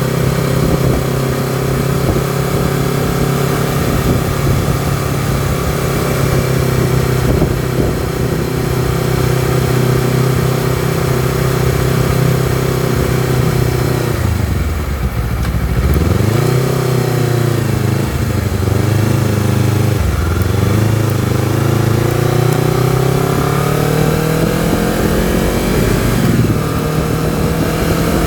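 Honda CBR250RR's parallel-twin engine under way: it holds steady revs for about fourteen seconds, then the revs drop with a brief flare and climb steadily, with a short dip near the end as it changes gear before rising again.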